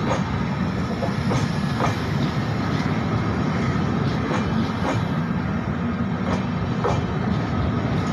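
Red LHB passenger coaches of an Indian Railways train running past: a steady rumble of steel wheels on rail, with clicks in pairs about half a second apart as wheel sets cross a rail joint.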